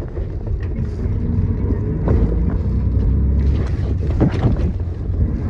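City bus running, heard from inside the cabin: a steady low engine and road drone, with a few sharp rattles and knocks from the bus body about two seconds and about four seconds in.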